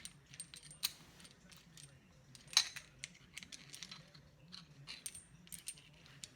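Small metal parts clicking and clinking in an irregular run of short ticks, some with a brief high ring, as a motorcycle seat knob and its stop pin are handled and turned by hand; the loudest clink comes about two and a half seconds in.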